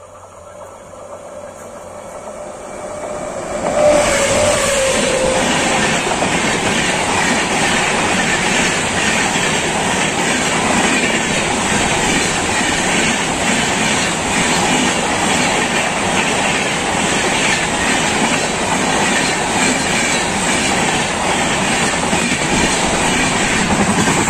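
Jasidih–Bengaluru Humsafar Express approaching and running through at speed. The sound builds, with a steady tone that dips slightly in pitch as the locomotive passes about four seconds in and the loudness jumps. After that the coaches rush by with a loud, even rumble and rhythmic clickety-clack of wheels on the rails.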